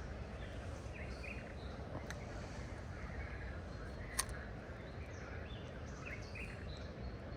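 Steady outdoor background noise with small birds chirping a few times, and one sharp click about four seconds in.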